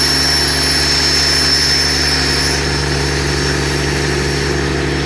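Boat engine running steadily: a constant low drone with a thin high whine above it that fades about halfway through.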